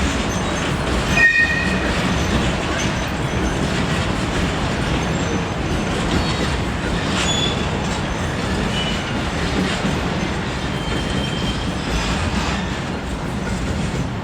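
A train rolling past on rails, a steady rumble of wheels and running gear, with a short high-pitched wheel squeal about a second in and a few fainter squeals later.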